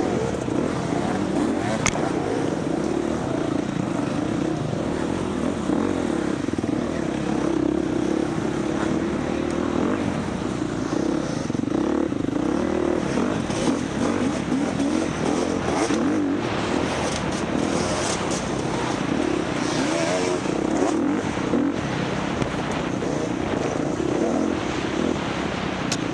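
Dirt bike engine running continuously under load, heard close from the rider's onboard camera, its note wavering a little with throttle.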